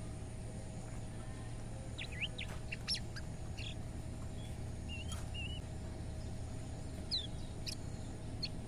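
Kecial kuning (white-eye) giving short, scattered high chirps, with a brief warbled phrase about five seconds in, over a steady low hum.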